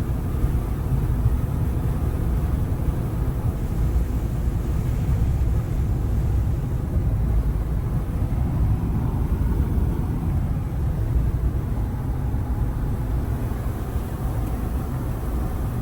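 Steady low rumble of a truck driving on the road, its engine and tyre noise holding even throughout.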